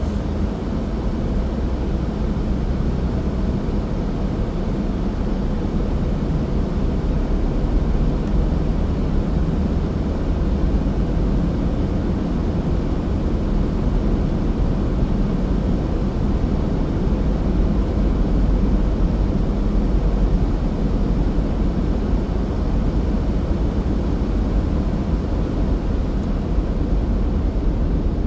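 A car driving at a steady speed: even, low rumble of tyres and engine.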